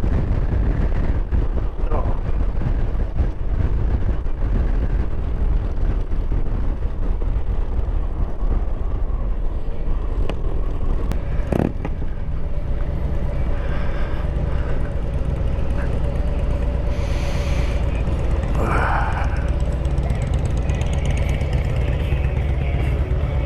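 Harley-Davidson Road Glide's V-twin engine running steadily at highway speed, with a constant rush of road and wind noise.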